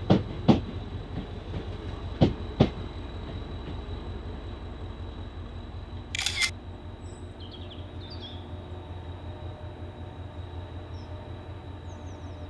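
Train wheels clicking over a rail joint, two pairs of sharp clicks in the first three seconds, over a train's steady low running hum. A brief hiss comes about six seconds in.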